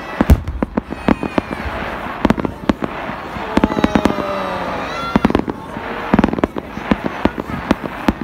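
Aerial fireworks bursting: a quick, irregular run of sharp bangs and crackles, the loudest bang just after the start.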